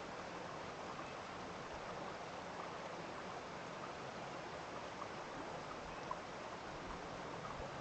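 Running water from a stream flowing steadily, with a few faint ticks, one sharper about six seconds in.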